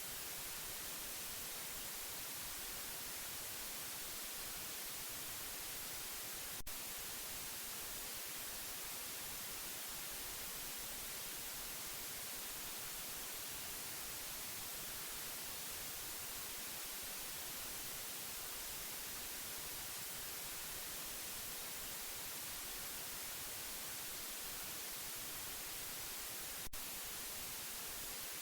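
Steady white noise: an even hiss, strongest in the high frequencies, at an unchanging level, with a faint click twice.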